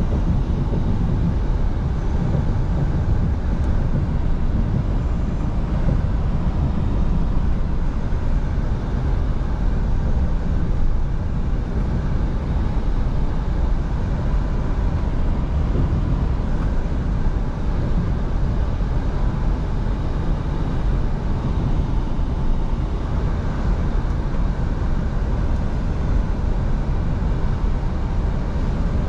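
Scania V8 truck driving at a steady speed: a steady low engine drone mixed with road and wind noise.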